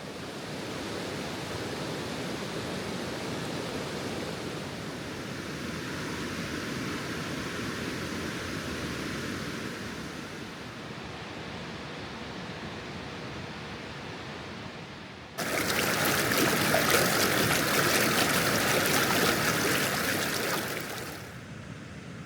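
River water rushing over a drop in the riverbed, a steady rush. About fifteen seconds in it cuts suddenly to a louder, hissier rush for about six seconds, then drops back.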